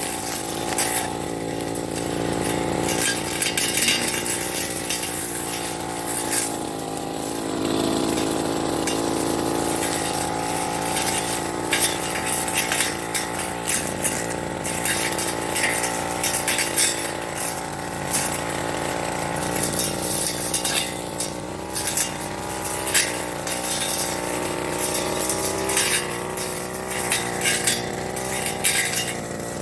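Firman FGB389 30cc two-stroke brush cutter running with a metal blade while cutting grass. Its engine pitch wavers slightly under load, with frequent sharp clicks and clinks.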